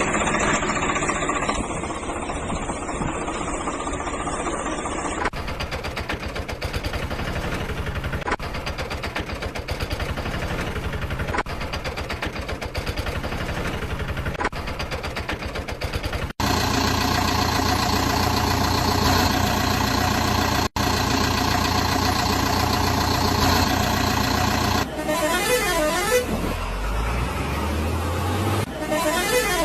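Vehicle horns honking over engine-like running sounds, in several segments that change abruptly, with a wavering rise and fall in pitch near the end.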